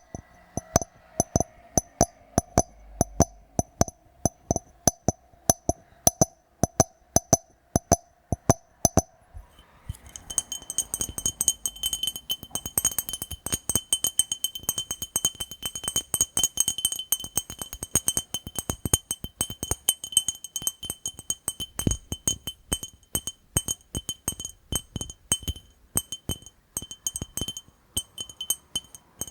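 Tapping on a glass jar: a steady run of sharp clinking taps, a few each second. After about ten seconds the taps come faster and the glass rings with a high tone under them.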